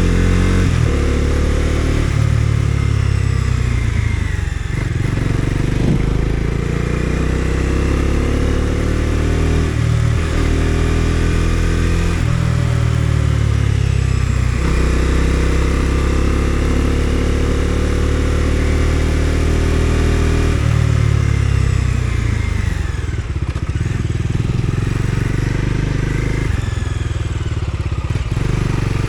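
Bajaj Dominar 250's single-cylinder engine running under way, its revs climbing and dropping back several times.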